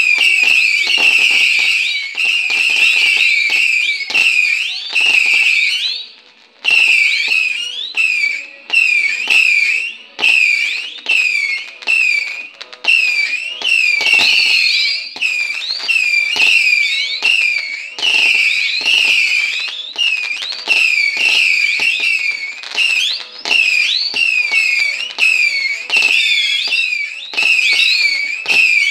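Ground firework shooting out a rapid string of whistling shots: shrill whistles with rising glides, about two a second and overlapping, with sharp pops among them, broken by one brief pause about six seconds in.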